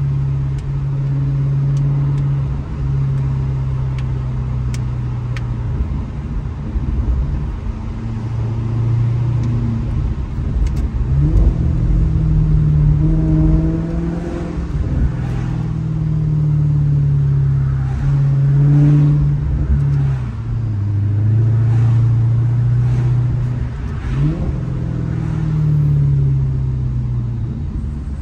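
Maserati GranTurismo's Ferrari-built V8 running under way, its note stepping up and down several times with a few short rising revs.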